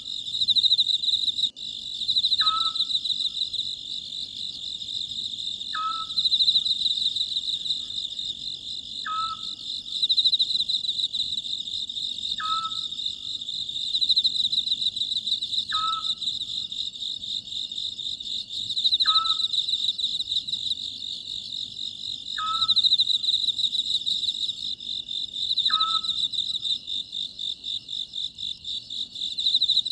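Oriental scops owl calling a short two-part note about every three and a half seconds, nine times, over a steady high chorus of crickets.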